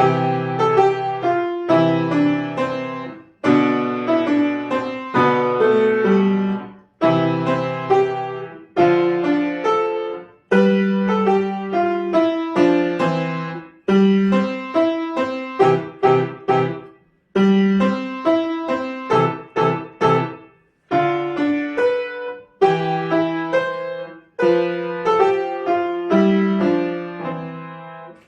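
Solo piano playing a short piece in chordal phrases a few seconds long, each broken off by a brief pause. It begins out of silence and ends with a last phrase dying away.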